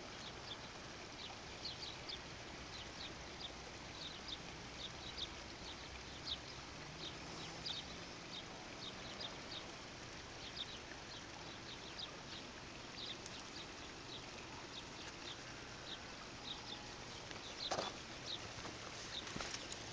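A small bird chirping over and over in short, high notes, a couple of times a second, over a steady outdoor hiss. There is a single knock near the end.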